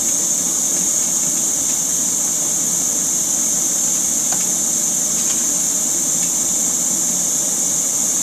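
Hot-air plastic welder blowing a steady hiss with a low hum as it melts plastic along a crack in a motorcycle fairing. A few faint ticks come through in the middle.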